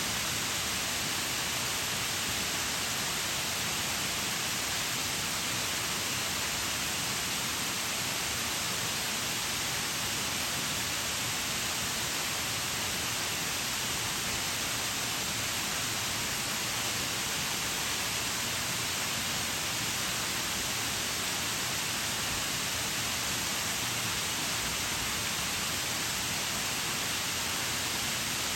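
Waterfall: a steady, unbroken rush of falling and splashing water, even in level throughout.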